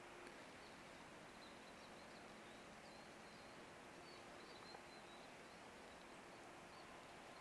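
Near silence: faint outdoor ambience with scattered faint, short, high chirps of small birds.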